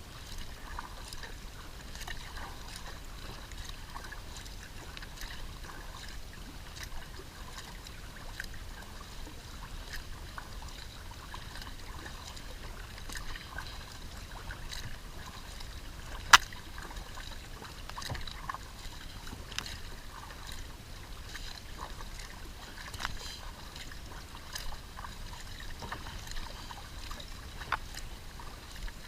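Kayak being paddled on a lake: water trickling and splashing off the paddle blades, with scattered light clicks and one sharp click about sixteen seconds in.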